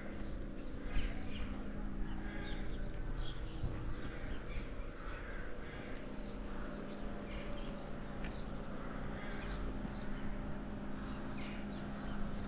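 Birds calling all around, a busy run of short, high chirps that each drop in pitch, several a second, over a steady low hum.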